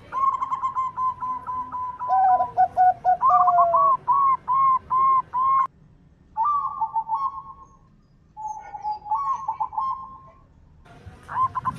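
Zebra doves (perkutut) cooing in rapid runs of short, rippling coo notes, a higher and a lower voice overlapping in places. The calling breaks off abruptly about halfway through, then resumes in shorter phrases.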